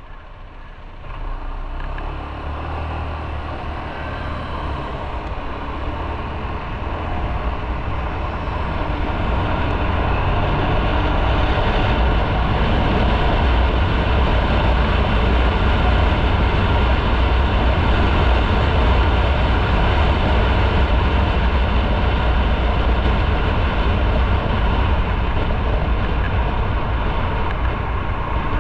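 Motorcycle pulling away about a second in, then gathering speed, with engine, road and wind noise building for about ten seconds before settling into a steady loud cruise.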